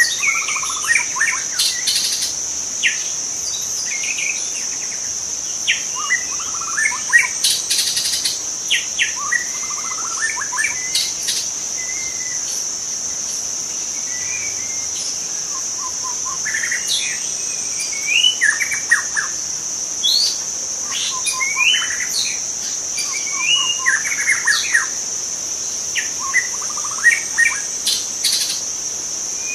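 Young wild white-rumped shama singing varied phrases of whistles, slurred glides and quick note runs, in clusters with short pauses. A steady high-pitched insect drone runs underneath.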